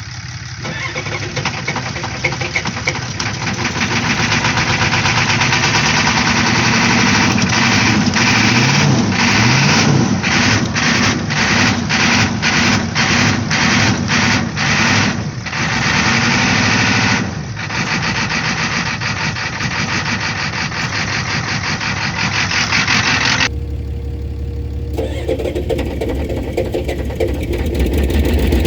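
Ford 6.9-litre IDI V8 diesel in a 1986 F-250 cranking and firing unevenly as it tries to start after sitting for years. The sound keeps cutting out briefly in the middle, then changes abruptly to a lower, steadier engine sound about 23 seconds in.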